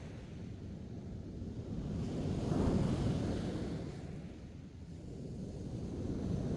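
Ocean surf breaking on a beach, with wind rumbling on the microphone. One wave swells to its loudest about two and a half seconds in, then eases off.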